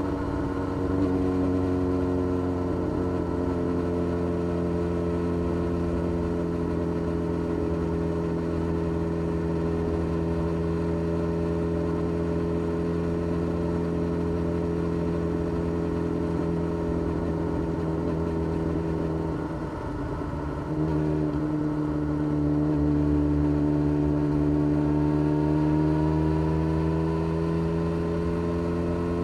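2013 Yamaha XJ6-S's inline-four engine running through a full Black Widow exhaust system with no catalytic converter, holding a steady note at cruise. About twenty seconds in the note drops briefly, then climbs slowly as the bike accelerates.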